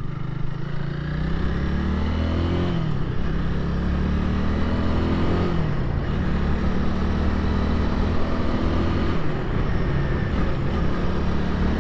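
Honda Rebel 300's single-cylinder engine accelerating under way. The pitch rises, drops about 3 s in and again about 6 s in as it shifts up, then holds steady, over a constant rush of wind and road noise.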